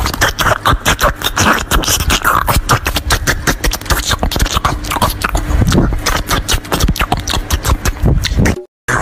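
Close-miked eating sounds: rapid, irregular crunching and chewing of snacks and fruit, with a brief cut to silence near the end.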